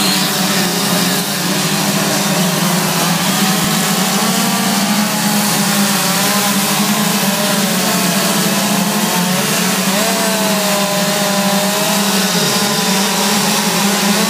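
Chainsaw running continuously at high speed while carving wood, its pitch wavering up and down as the load changes.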